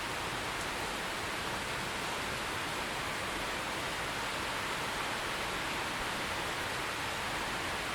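Steady rain falling, an even hiss that does not change in level, with no thunder.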